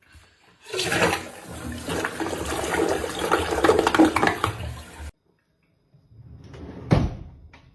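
Water rushing for about four seconds, then cut off abruptly; a single thud follows near the end.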